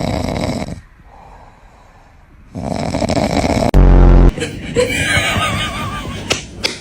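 Snoring from a sleeping cat, with a short, very loud, deep snore about four seconds in.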